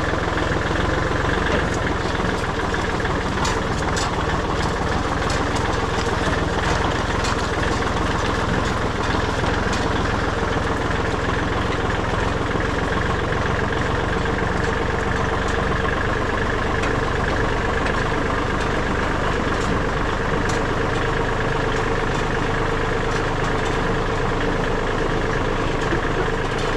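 Tractor engine running steadily, with an even drone and no change in speed.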